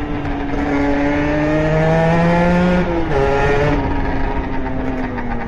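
A two-stroke Beta RR engine with a 70cc Airsal kit and a handmade SCR Corse expansion pipe revving up under acceleration. The revs drop sharply about three seconds in, as at a gear change, then pick up briefly before falling away.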